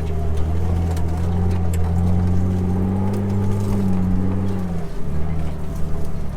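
Jeep Wrangler TJ engine running steadily at low revs as it pulls up, its pitch rising a little mid-way and dropping back about five seconds in.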